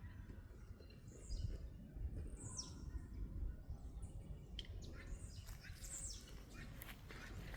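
Small birds calling: a scattered series of short, high chirps, several sweeping quickly downward in pitch, over a steady low rumble.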